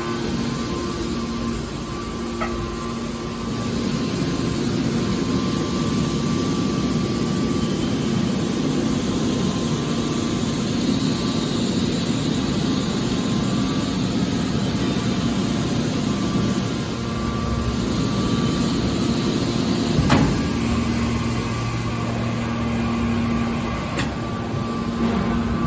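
Hydraulic scrap metal baler running: a steady machine hum from its motor and hydraulic pump, with a few sharp metallic knocks.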